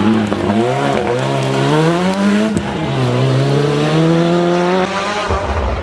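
Ford Sierra Cosworth rally car's turbocharged four-cylinder engine accelerating hard, its pitch climbing and dropping sharply at two upshifts before rising again. Near the end the sound changes abruptly to a lower, rougher rumble.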